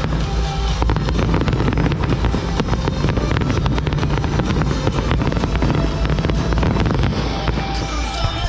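Fireworks display in full barrage: continuous low booming with rapid crackling throughout, over music.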